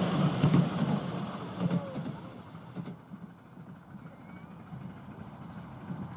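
Miniature railway train running, its noise with rapid clicks fading away over about three seconds, leaving a quieter low rumble.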